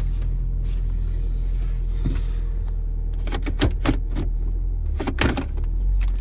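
2005 Nissan Altima engine idling steadily just after a cold start. Several short knocks or clicks come over the idle between about three and five and a half seconds in.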